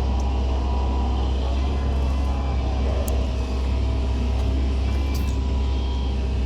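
Excavator's diesel engine running with a deep, steady drone, with a couple of faint clicks from the machine about three and five seconds in.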